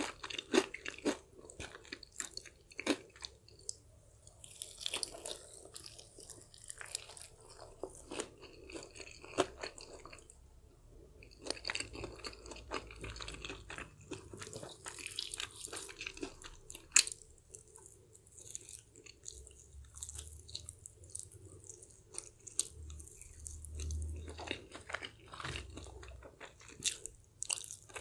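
Close-miked chewing of crispy fried chicken: crackly crunches of the fried coating in irregular clusters, between quieter stretches of chewing.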